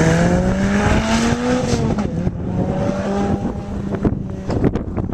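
Sports car's engine accelerating hard, its pitch climbing, dropping about two seconds in at a gear change or lift, then climbing again before fading away as the car drives off. Wind buffets the microphone near the end.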